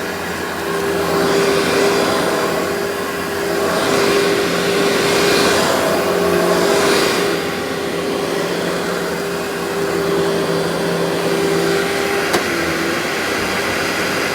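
Workhorse vacuum cleaner running steadily, its motor hum constant while the rush of air swells and eases every few seconds as the suction is worked. A single sharp click about twelve seconds in.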